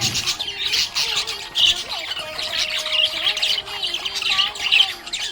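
Budgerigars chirping in a continuous stream of quick, overlapping chirps, with a few louder calls standing out.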